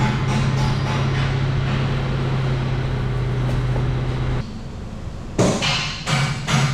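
A machine running with a steady low hum and hiss, cut off abruptly about four and a half seconds in, followed by a few sharp knocks.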